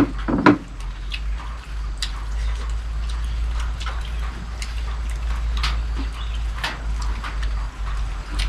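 Rain starting to fall: a steady low rumble with scattered sharp taps, and a couple of louder knocks right at the start.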